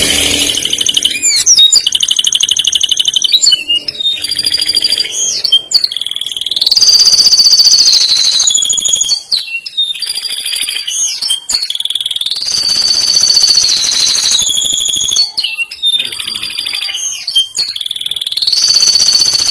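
Male domestic canary singing full song: long, rapid rolling trills each held for a second or two, broken up by short sweeping whistles and sharp chips.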